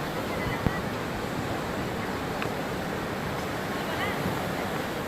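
Sea surf and strong wind: a steady rushing noise of waves breaking, with wind buffeting the microphone.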